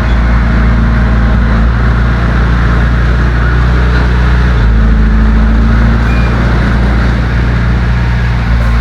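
Heavy earthmoving machine's diesel engine running loud and steady under load, its low note shifting about halfway through.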